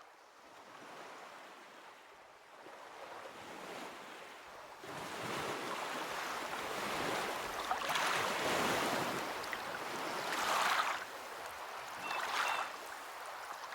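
Ocean surf breaking on a beach: a soft wash for the first few seconds, then waves crash and roll in louder, in several surges toward the end.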